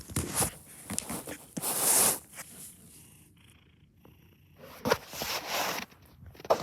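A domestic cat purring close to the microphone, in uneven bursts with a quiet stretch of about two seconds in the middle.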